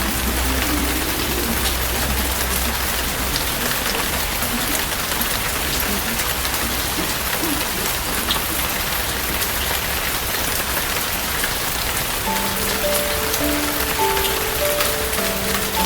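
Steady rain pattering, an even hiss of many small drops. About twelve seconds in, a soft melody of short separate notes comes in over it.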